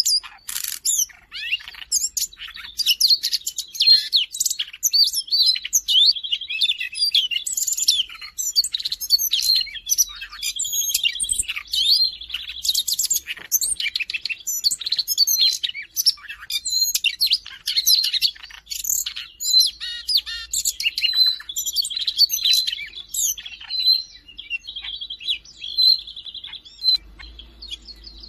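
Siberian rubythroat singing continuously, a fast, varied run of chirps and whistles with repeated trilled phrases.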